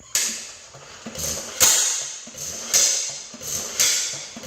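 Magneto-ignition engine being turned over without starting, with a sharp puff about once a second, each fading before the next. It won't fire.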